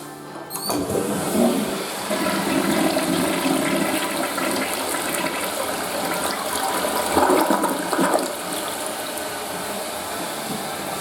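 Western-style toilet flushing: a short click about two-thirds of a second in, then loud rushing water for about seven seconds, settling into a steadier hiss near the end.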